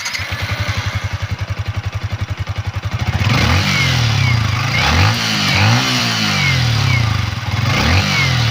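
Yamaha Sniper 155R's 155 cc single-cylinder four-stroke engine idling with an even pulse, then from about three seconds in revved in short throttle blips, about one a second, each rising and falling in pitch.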